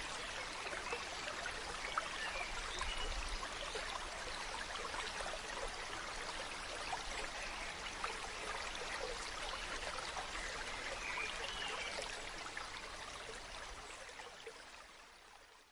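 Flowing stream water, a steady rushing trickle, fading out near the end.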